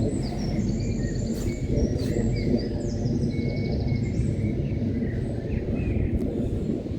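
Low, steady engine noise of fighter jets flying high overhead, with small birds chirping and trilling throughout.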